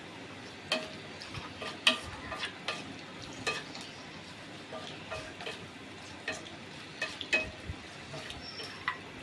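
Chicken being mixed into a thick curd-and-spice marinade in a bowl: wet stirring noise with irregular clicks and knocks against the bowl.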